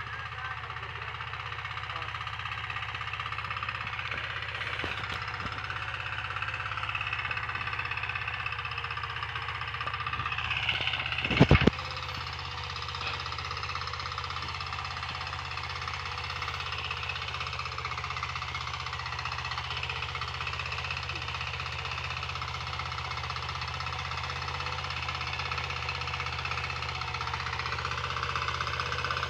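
Hand tractor engine running steadily, with a short cluster of loud knocks about eleven seconds in.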